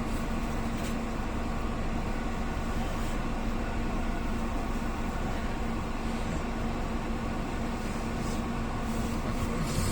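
A vehicle's engine running steadily, a constant hum with a steady low tone and no change in pitch.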